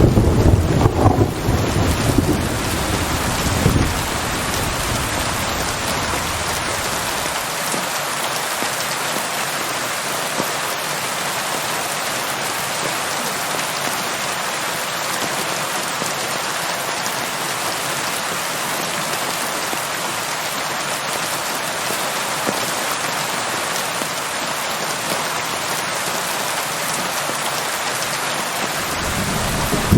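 Steady rain falling, an even hiss, with a low rumble of thunder dying away over the first few seconds and another starting to build near the end.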